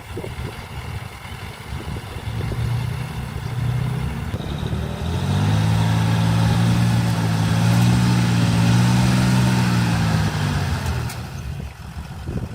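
Heavy diesel engine of construction machinery working up to higher revs: it rumbles at first, grows louder and steadier about five seconds in, holds for several seconds, then eases back down near the end.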